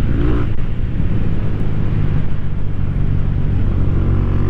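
Rusi Classic 250's LX166FMM single-cylinder engine running steadily while the motorcycle is ridden, heard under a constant rush of road and wind noise.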